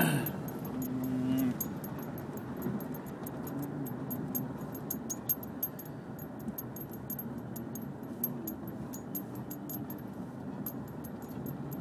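Steady road and engine noise inside a moving car's cabin, with frequent faint, light clicks and jingles.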